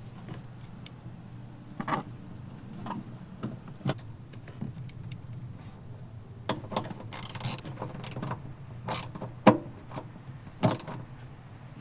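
Scattered clicks, taps and rustles of hands and small tools working on wiring while the red power wire is fitted to its terminal, over a steady low hum. The sharpest knock comes about nine and a half seconds in.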